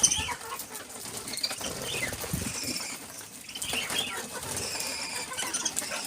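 Budgerigars chirping and chattering in many short overlapping calls, with brief bursts of wing flapping.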